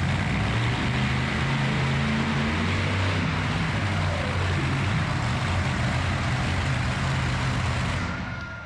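A vehicle engine running steadily at a low, fairly even pitch, with a steady hiss over it, fading out near the end.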